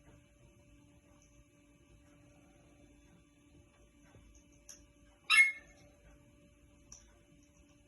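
A single short, high bird squeak about five seconds in, over a faint steady hum.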